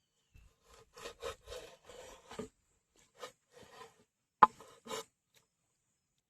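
Knife strokes scraping and cutting on a wooden surface: a quick run of five or six rasping strokes, then a couple more, and one sharp knock about four and a half seconds in.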